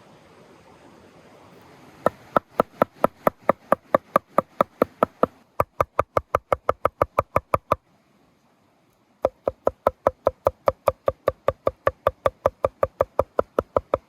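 Rapid, even knocking, about five strokes a second, in two long runs with a short pause between them.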